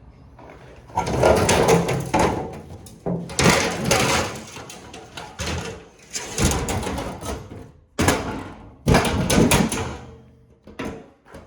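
About six loud bursts of scraping and rattling as parts are wrenched and worked loose by hand during dismantling.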